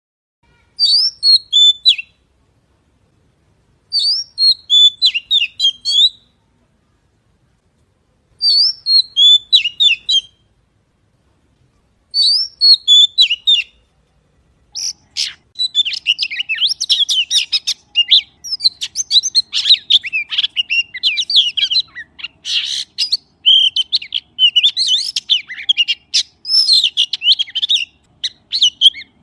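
Magpie song: loud, rapid chirping and whistling notes, first in four separate phrases of about two seconds each with silent gaps between them, then from about halfway through a dense, unbroken run of chirps and whistles.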